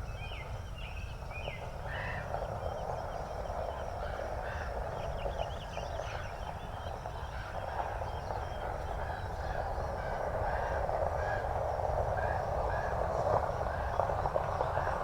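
Wind rumbling on the microphone with a steady outdoor rushing that grows louder toward the end, while small birds chirp in the first few seconds.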